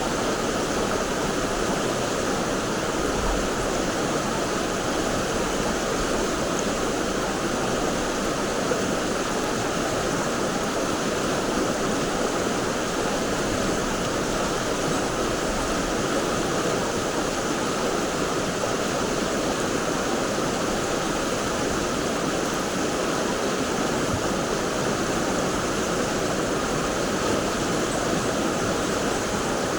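Mountain stream rushing steadily over rocks: a constant, even wash of flowing water.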